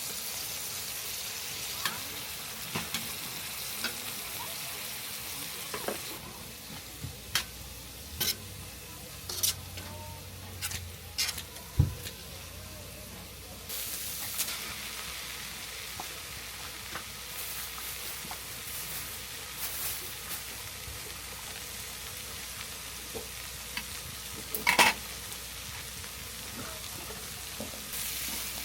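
Food sizzling in a frying pan, with scattered sharp clicks and a few louder knocks of utensils against the pan. The sizzle drops back for several seconds in the middle, then picks up again.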